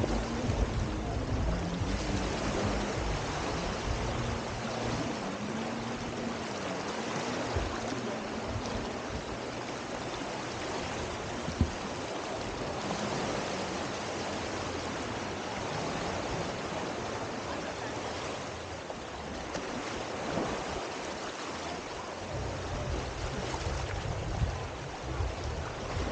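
Small waves washing on the beach, a steady hiss of surf, with wind rumbling on the microphone near the end.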